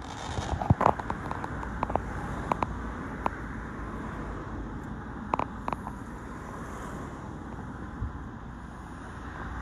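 Fireworks popping and crackling in the distance: a quick flurry of sharp cracks about a second in, a few more over the next two seconds, and another short cluster around the middle. A steady low rumble lies underneath.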